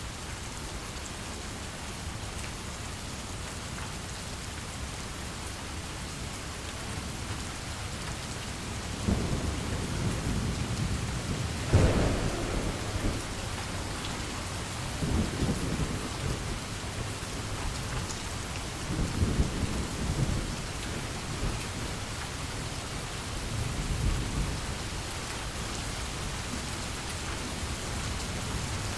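Steady rain with rolling thunder. Deep rumbles begin about a third of the way in, a sharper, louder clap comes near the middle, and two or three more rolls follow.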